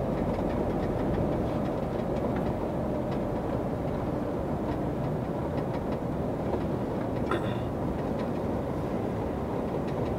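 Steady low engine and road drone heard inside a moving truck's cab, with a brief faint click about seven seconds in.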